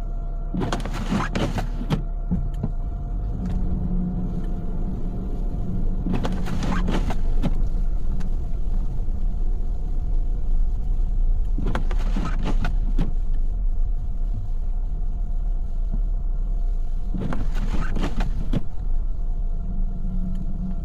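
Car cabin with a steady engine and road rumble and a faint steady hum. Four scraping sweeps, about every five and a half seconds, fit the windshield wipers on an intermittent setting clearing snow.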